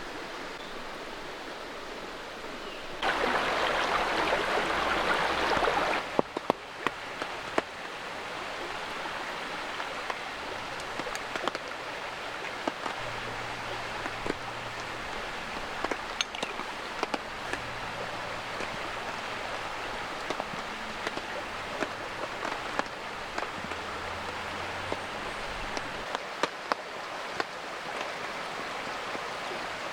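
Steady rain and running creek water. A louder rushing stretch lasts about three seconds and cuts off suddenly. After it, scattered raindrops tick sharply against the steady wash.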